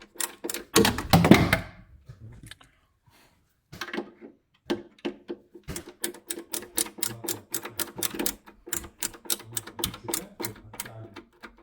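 A loud clatter about a second in, then a fast run of sharp ticks, about five a second, over a faint steady low hum.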